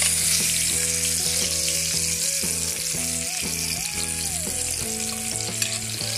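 Stuffed bitter gourds (karela) shallow-frying in hot oil in a pan: a steady sizzle as they are turned with tongs. A melodic background music track plays underneath.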